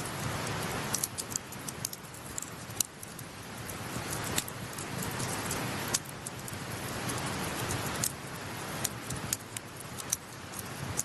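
Campfire crackling, with sharp irregular pops every second or so, over the steady rush of a mountain stream.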